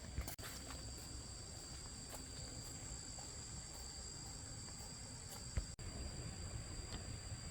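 Steady high-pitched drone of insects calling, with a few light clicks and a sharp knock about five and a half seconds in.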